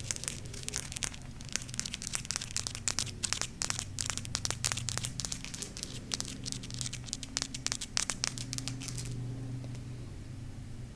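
Golden crystal stones being tapped and scratched by hand: a quick, uneven run of sharp clicks and scrapes that stops about nine seconds in.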